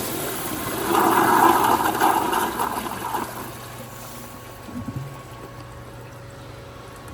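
Sloan Regal flushometer flushing a 1978 American Standard Glenco wall-hung toilet, set to 3.5 gallons per flush. The water rushes loudest in the first three seconds, then dies away to a quiet trickle.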